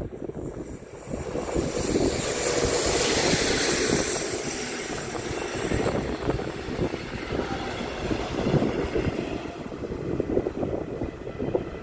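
Regional train, an electric locomotive hauling red double-deck coaches, passing close on the adjacent track. A rush of wheel and air noise builds over the first couple of seconds, then gives way to steady rolling and clatter as the coaches go by, easing a little near the end.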